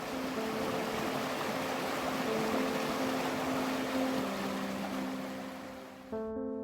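Steady rushing water, like a stream or small waterfall, over soft sustained piano-like music. The water sound fades and drops out about six seconds in, leaving the music alone.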